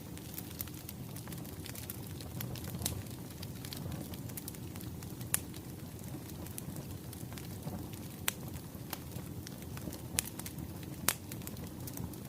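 Firewood crackling as it burns: a steady low rumble with many small crackles and a few sharp pops, the loudest about five seconds in and near the end.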